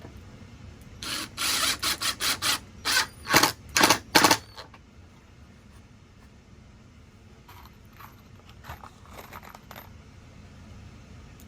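Woodworking tool work on wooden benchwork: a run of about ten short, harsh strokes between one and four and a half seconds in, then a few fainter ones later on.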